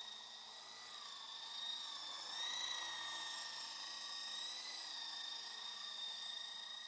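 Esky Lama V4 coaxial RC helicopter's electric motors and rotors whining steadily. The pitch rises briefly about two and a half seconds in and again about halfway through, as the throttle is pushed up.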